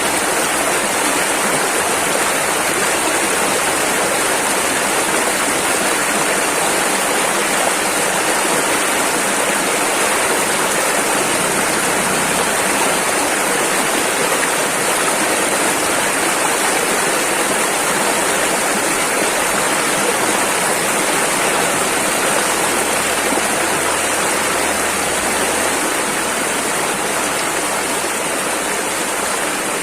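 Rushing river water flowing fast over rapids: a steady, dense wash of water noise.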